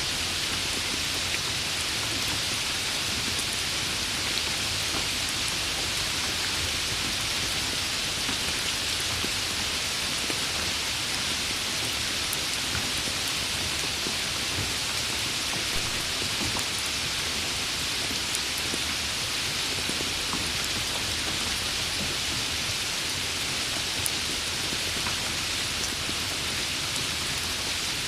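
Steady rain falling on a surface: an even hiss with a few scattered drop ticks.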